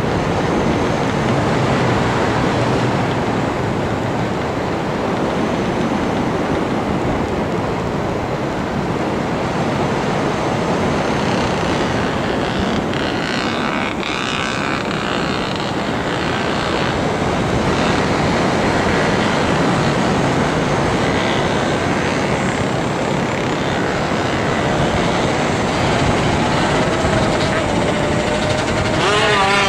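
Steady rushing noise of an FPV model aircraft in flight, wind and propeller together. A short wavering tone rises over it near the end.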